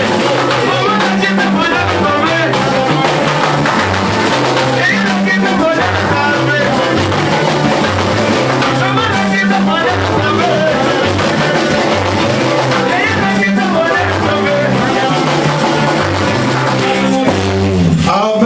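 Live praise music: a band with a bass line stepping through a repeating pattern, drums and singing voices. The music stops just before the end.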